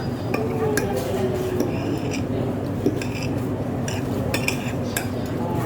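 Metal cutlery clinking against plates and bowls during a meal: irregular sharp clicks over a steady background din.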